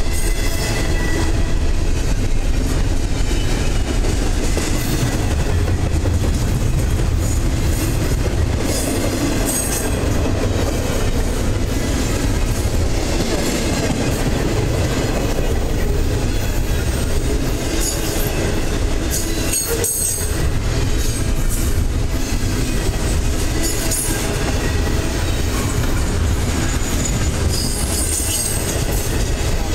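Double-stack intermodal freight cars rolling past at close range: a steady low rumble of steel wheels on the rails, with a few brief high-pitched wheel squeals.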